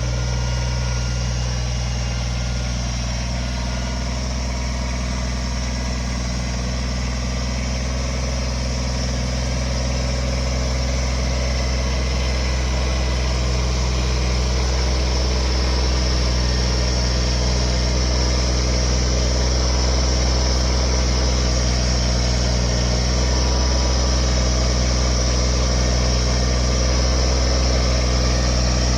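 An engine running steadily at an even speed, most likely land-clearing machinery, with strong low steady tones. It grows slightly louder over the second half.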